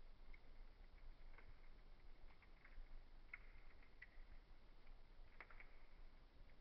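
Faint wood fire in a fireplace crackling, with scattered small pops over a soft hiss, the sharpest pop about five and a half seconds in.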